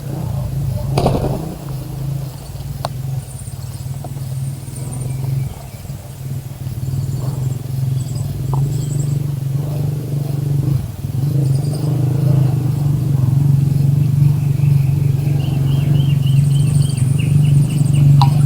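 A motor engine hums steadily at one low pitch and grows gradually louder. Faint, short, high bird chirps come over it, with a quick run of chirps near the end.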